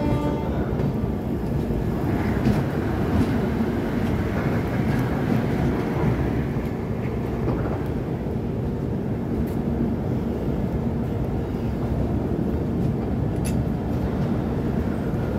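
Coromandel Express passenger train running, heard from an open coach doorway: a steady rumble of wheels on the rails.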